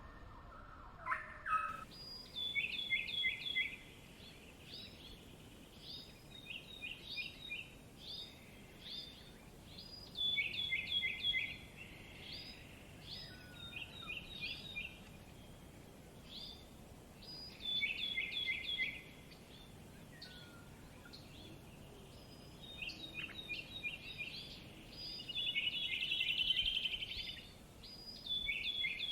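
Songbirds singing: short phrases of quick, falling chirps repeated again and again in bouts, with brief pauses between them over a faint background hiss.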